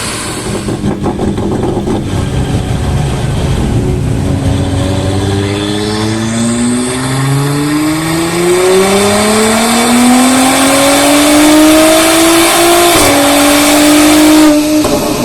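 Audi S5 B9's turbocharged 3.0 TFSI V6, fitted with a TTE710 turbo, under full-throttle acceleration: a rough low rumble for the first few seconds, then revs climbing steadily for about nine seconds. Around 13 seconds in the pitch drops suddenly as it shifts up, climbs again briefly and cuts off near the end as the throttle is lifted.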